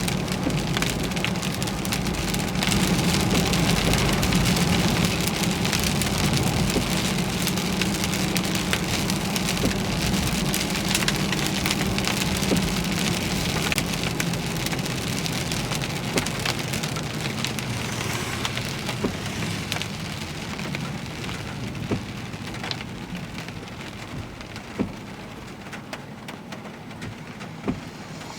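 Heavy rain pelting a vehicle in a thunderstorm, thick with individual drop hits, over the low steady hum of the car. The rain eases toward the end, with a couple of sharper hits late on.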